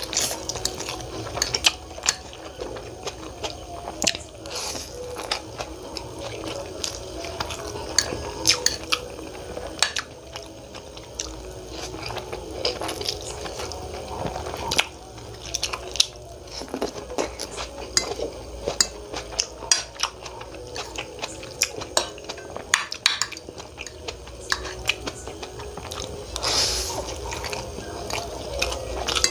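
Someone eating Maggi instant noodles and tomatoes: many scattered clicks and clinks of a utensil against a plate or bowl, among wet mouth and chewing sounds.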